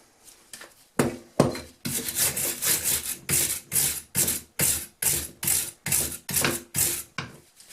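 Rhythmic back-and-forth scrubbing strokes on a rusty vintage hand drill being cleaned, about two to three strokes a second, starting about a second in and stopping shortly before the end.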